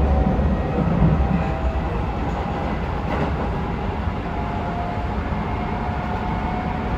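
Keisei 3700 series electric train heard from inside the car, running: the Toyo GTO-VVVF inverter and traction motors give short steady tones that step from pitch to pitch, over a low rumble of the wheels on the track.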